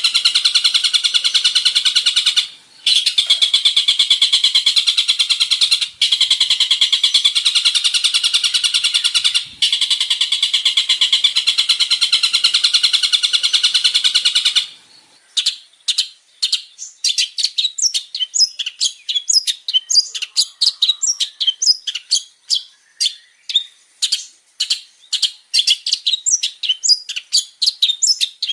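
Long-tailed shrike (cendet) singing in a loud, varied outburst. A dense, very rapid chattering trill runs with three brief breaks, then about halfway through it gives way to separate sharp chirps, several a second.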